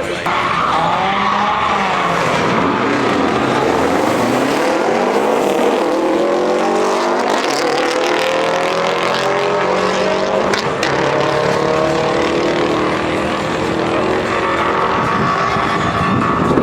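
Performance car engine revving hard on the track, its pitch swinging up and down at first and then climbing steadily from about four seconds in.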